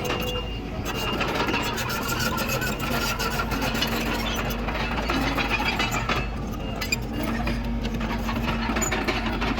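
Komatsu D31PX bulldozer's diesel engine running steadily under work, with a constant dense rattle over the low rumble.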